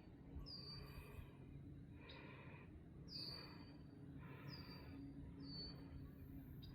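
Bird calling over and over, about once a second, faint: each call a short high note sliding down, followed by a rougher, lower part.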